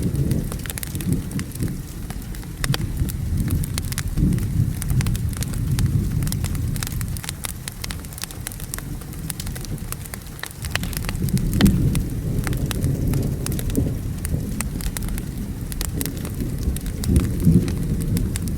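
Crackling fireplace with many sharp pops, layered over steady rain and low rolling thunder that swells several times, loudest a little past the middle.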